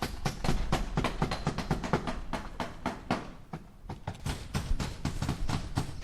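Hammer driving nails into wood: rapid, sharp strikes at about five a second, easing off briefly a little past halfway.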